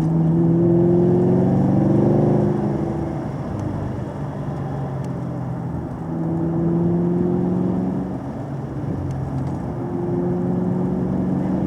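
Car engine pulling in three surges, its pitch climbing under acceleration near the start, about six seconds in and about ten seconds in, and easing off in between.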